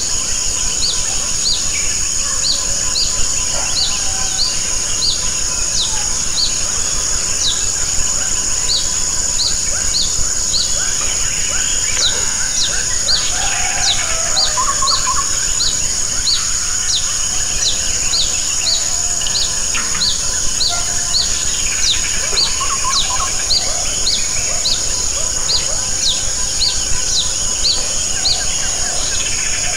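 Steady rain falling on leaves and roofs, with a steady high insect whine and a short high chirp repeating about three times every two seconds.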